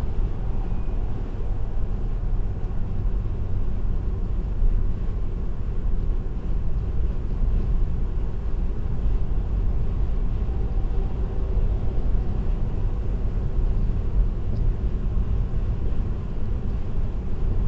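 Steady low rumble of tyre and road noise with engine hum from a car cruising at expressway speed, picked up by a dashcam.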